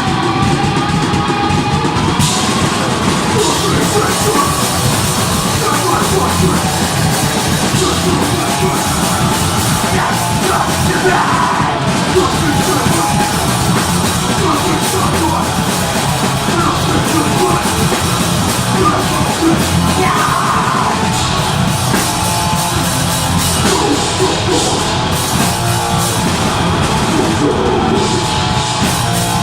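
Deathgrind band playing live: heavily distorted guitars and bass with a dense, fast drum kit, and yelled vocals over it.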